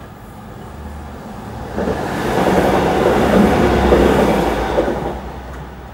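GWR diesel multiple unit passing at speed over the level crossing without stopping. The rush of wheels and engines builds about a second in, is loudest through the middle, and fades away near the end.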